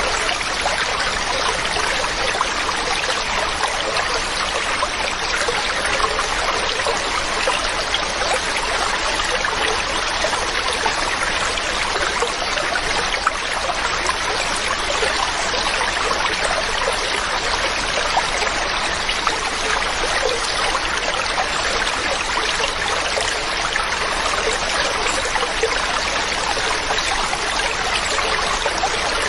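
Mountain stream running steadily over rocks, a constant rushing with a fine bubbling, trickling texture.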